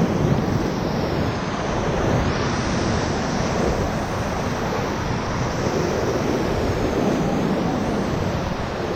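Steady rush of high-water whitewater rapids on the Ocoee River, heard from within the raft.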